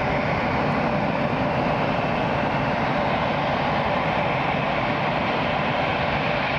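Steady, unchanging engine noise with a constant rushing hiss, the kind heard on an airport apron around the de-icing pads.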